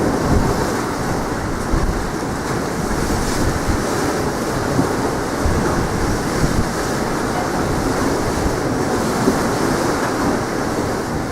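Sea waves and surf rushing under strong wind, with gusts buffeting the microphone in uneven low thumps.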